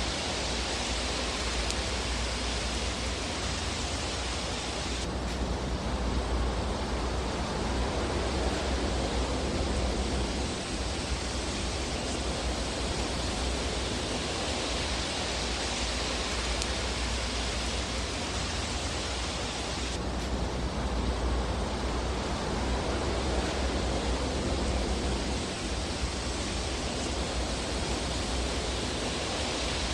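Fireplace fire ambience: a steady rushing hiss over a low rumble, with few distinct crackles. The upper hiss changes abruptly about five seconds in and again about twenty seconds in.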